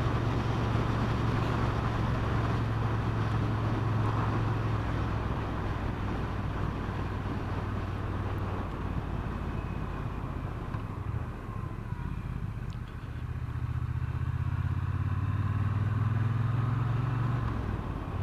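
Triumph Bonneville T120's 1200 cc parallel-twin engine running under way, with wind rushing over the microphone. The engine note eases off a little past halfway, then picks up again.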